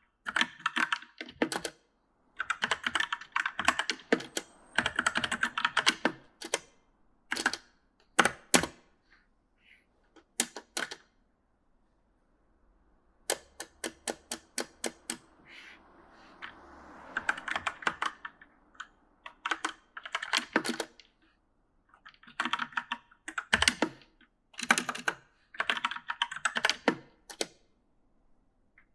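Typing on an E-Element mechanical gaming keyboard: fast, uneven runs of key clicks in short bursts, broken by pauses, with a lull of a couple of seconds a little before the middle.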